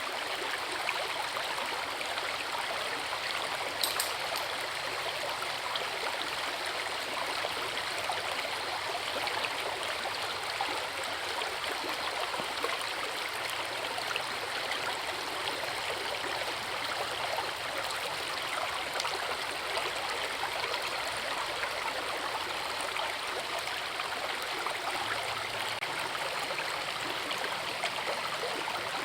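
Forest river and waterfall: water rushing steadily, with one brief tick about four seconds in.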